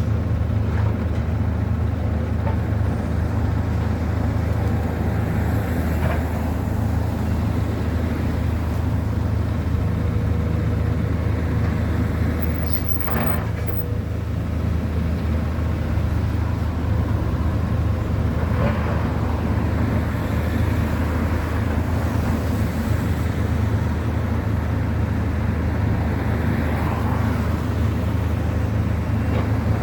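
Steady low motor rumble of vehicles or heavy machinery, with a few faint brief knocks over it.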